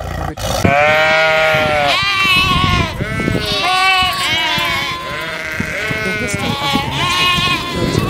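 A flock of sheep bleating, many calls overlapping one after another, starting just after half a second in.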